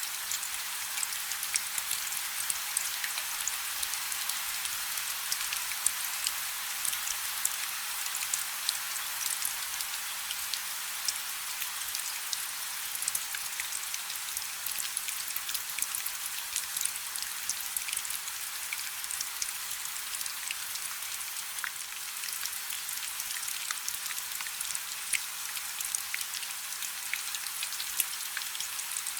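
Steady rain falling on a river, an even hiss sprinkled with many small drop ticks.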